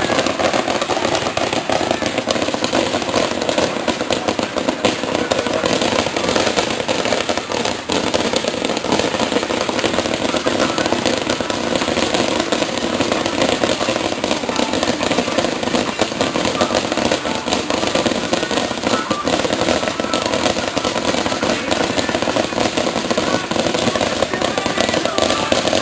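Starmine fireworks barrage: a dense, unbroken run of rapid crackling and bangs from many shells going off in quick succession.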